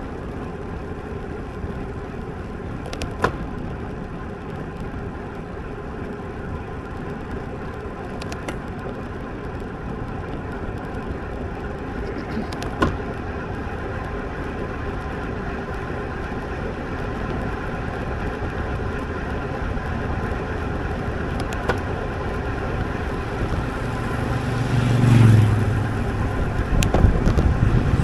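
Steady wind and road noise on a camera riding along on a road bicycle, with a few sharp clicks. Near the end a motor vehicle swells up loudly close by.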